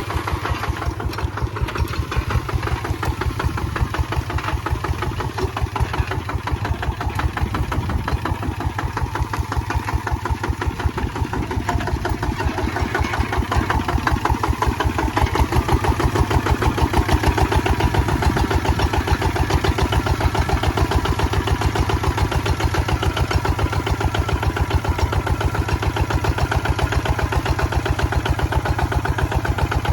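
Kubota ZT155 single-cylinder diesel engine chugging steadily with an even, rapid pulse, a little louder around the middle.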